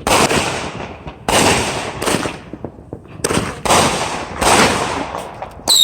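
Fireworks going off: about six loud bangs in quick succession, each trailing off in a short crackle, with a whistling firework starting its falling whistle right at the end.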